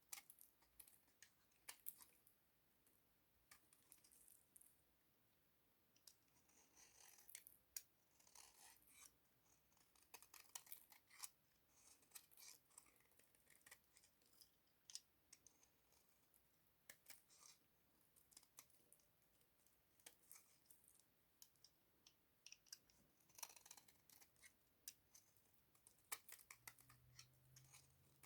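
Bar of soap being cut with a blade, close up: faint, crisp crackling and clicking in short irregular runs.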